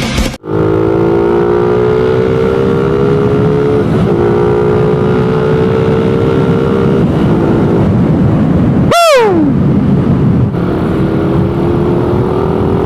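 Suzuki Raider 150's single-cylinder four-stroke engine, on its stock exhaust, running under way. Its pitch climbs slowly through each gear, with shifts about 4 and 7 seconds in. About 9 seconds in, a brief sharp falling tone cuts across.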